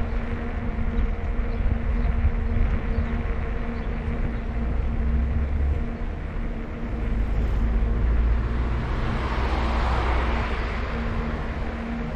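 Wind and road noise on a moving bicycle, over a low steady hum. A vehicle swells past and fades between about eight and a half and eleven and a half seconds in.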